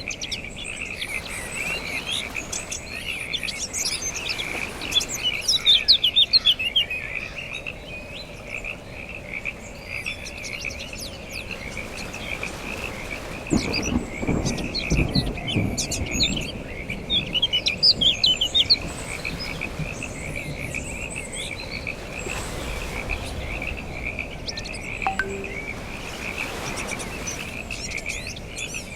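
A chorus of frogs calling in a continuous fast-pulsing trill, with birds chirping over it. A low rumble swells up about halfway through and fades over a few seconds.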